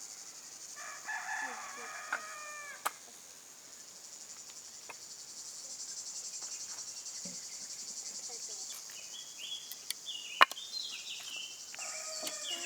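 A rooster crows once, about a second in, over a steady high chirring of insects. A few sharp clicks and short chirping calls follow, and another crow begins near the end.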